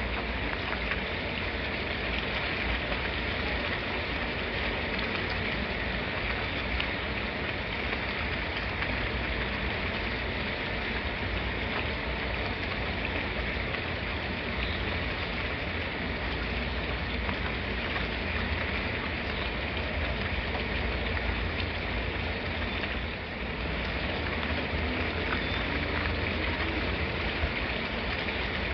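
Steady rain falling, an even hiss of dense drops with a low rumble underneath. It dips briefly about 23 seconds in.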